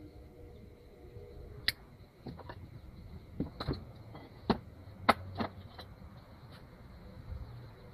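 A series of light clicks and knocks, about eight of them at uneven intervals, over a low rumble.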